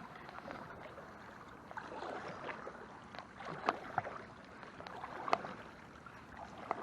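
Canoe being pushed off and paddled: the paddle working the water with soft splashing and gurgling, and a few sharp knocks, the loudest a little past the middle.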